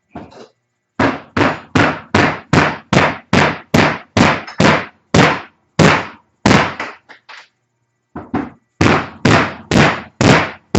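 Loud, rapid hammer strikes on metal, about three a second, banging parts out of an ATV front suspension. Each blow rings briefly. The strikes pause for about a second two-thirds of the way through, then start again.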